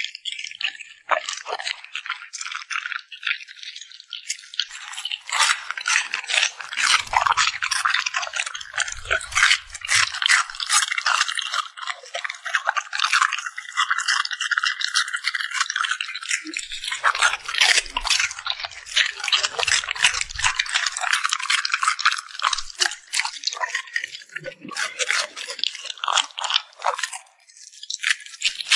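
Dogs eating close to the microphone: rapid chewing, crunching and lip smacking, a dense run of clicks that barely pauses.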